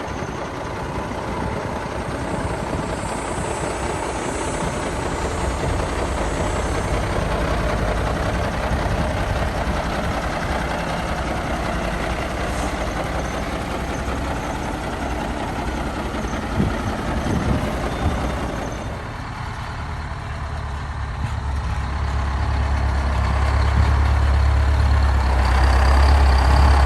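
Heavy diesel semi-trucks running, with a deep engine rumble that grows louder over the last few seconds as a truck draws close.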